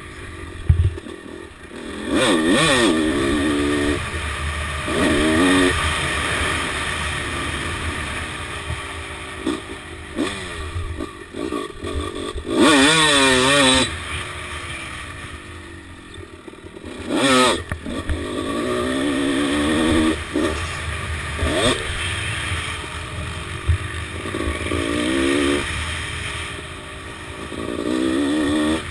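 1997 Honda CR250R's two-stroke single-cylinder engine being ridden hard, its pitch rising and falling over and over as the throttle is opened and shut through the gears. There are two louder rushes about halfway through.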